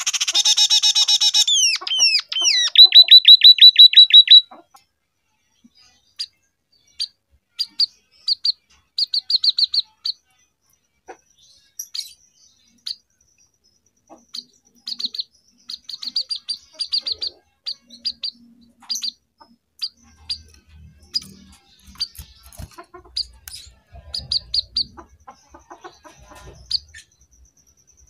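Scaly-breasted munia (emprit peking) singing canary-style song: a dense trill at the start, then a loud run of quick downward-sweeping notes, followed by scattered short high chirps and brief rapid twitters.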